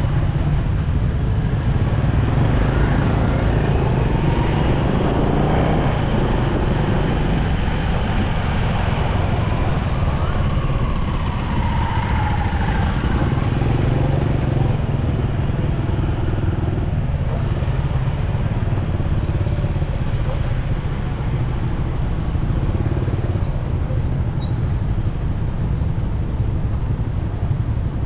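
Motorcycle engine running steadily under way in traffic, with road and wind noise and other vehicles passing.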